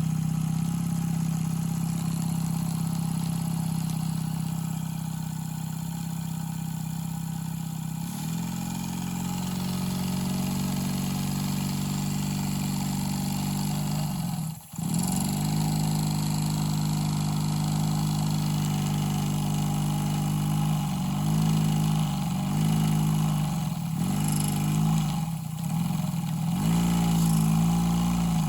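Rocking Whale BL1K single-cylinder, double-acting model steam engine running fast and steadily. Its pitch rises about a third of the way in, drops sharply and picks up again about halfway, then dips and recovers several times near the end as its speed changes.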